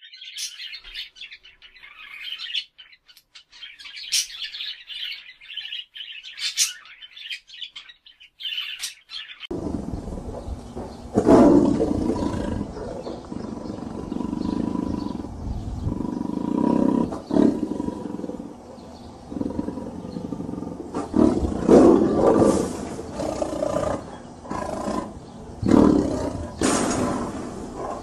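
A sun conure calling in short, shrill chirps for about the first nine seconds. Then a tiger growling and roaring in repeated deep, rough calls, with several louder roars.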